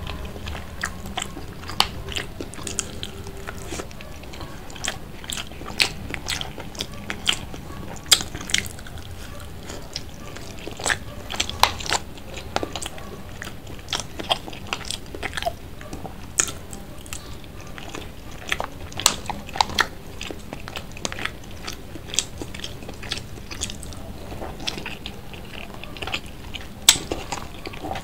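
Close-miked chewing of battered, sauced street food from a skewer: many short, irregular mouth clicks and smacks as she eats.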